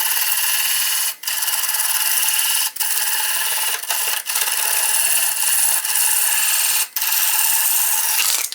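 Wood being worked on a spinning lathe: a steady rasping hiss of a tool or abrasive against the turning workpiece. It breaks off briefly about a second in, around three and four seconds, and near seven seconds, then stops just before the end.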